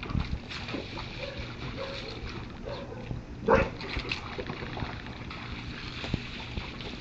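Dogs playing and chasing, with one short loud bark about halfway through.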